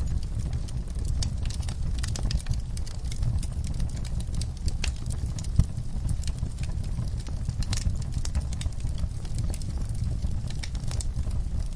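Log fire crackling in a fireplace: many small irregular snaps and pops over a steady low rumble of the flames, with one sharper pop about five and a half seconds in.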